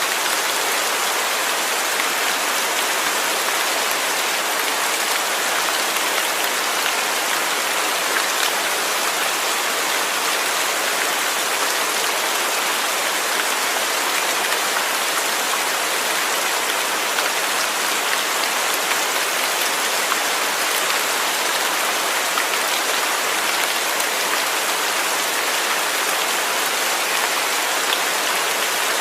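Steady, heavy rain falling, an even hiss of many drops with faint scattered patters on a surface.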